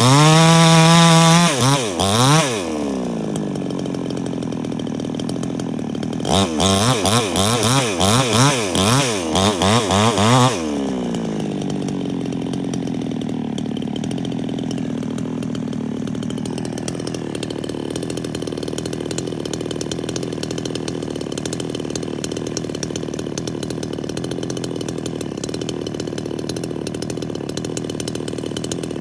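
Two-stroke chainsaw held at full throttle, dropping back to idle about two seconds in. About six seconds in the throttle is blipped up and down rapidly for about four seconds, then the saw settles to a steady idle.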